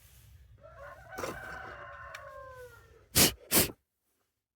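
A rooster crowing once, a call of about two seconds that falls in pitch at the end, followed by two short loud knocks.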